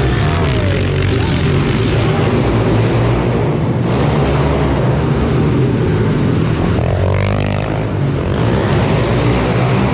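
Several small four-stroke minibike engines racing together, revving up and down as the riders work the throttle.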